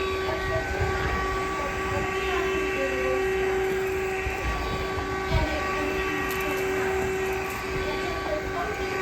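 Cordless vacuum running with a steady motor whine over an uneven low rumble, with a bump about five seconds in.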